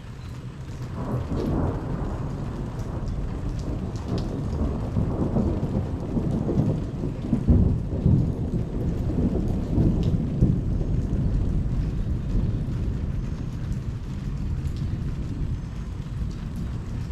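Thunder rumbling for more than ten seconds: it builds about a second in, is loudest in the middle and slowly fades, over steady rain.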